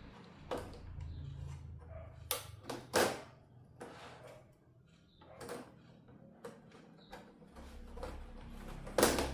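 Scattered clicks and knocks of parts and tools being handled during a TV teardown, a few in the first three seconds and the loudest near the end, over a low hum.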